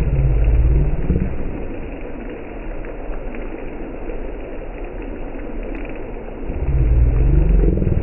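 Steady roar and sizzle of a restaurant karahi cooking over a high flame, with a deep pitched rumble that swells twice, at the start and again near the end.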